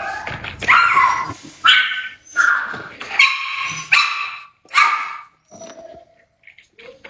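A dog barking repeatedly, about seven barks in quick succession, then a few fainter short sounds near the end.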